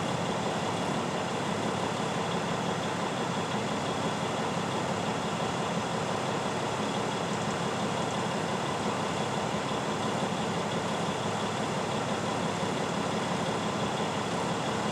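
Truck engine idling steadily, heard from inside the cab as an even, unchanging hum.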